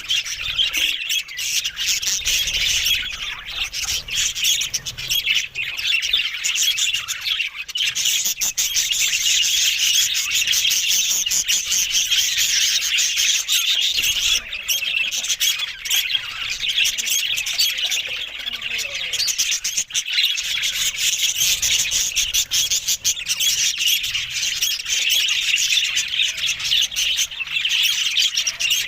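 Budgerigars chattering continuously: a dense, steady mix of warbling chirps and squawks.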